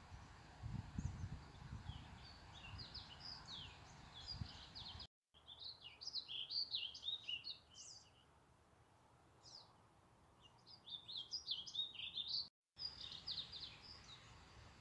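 Small birds chirping and singing in quick, repeated high phrases, over a low rumble that lasts until about five seconds in. The sound cuts out completely for a moment twice, at about five and at about twelve and a half seconds.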